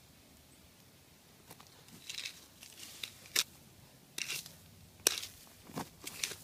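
Intermittent scratchy rustling and crackling, with a few sharp clicks, the loudest about halfway through and another a little later.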